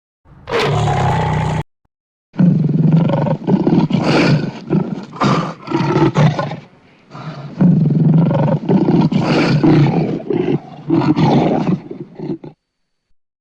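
Lion roaring and growling: one short roar, then after a brief pause a long run of roars with short breaks, which cuts off suddenly near the end.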